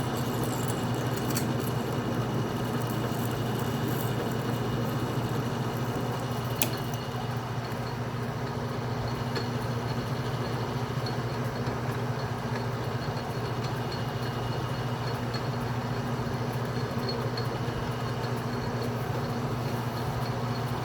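Atlas metal lathe running with its power feed engaged during a single-point threading pass in stainless steel: a steady motor and gear hum, with one sharp click about six and a half seconds in.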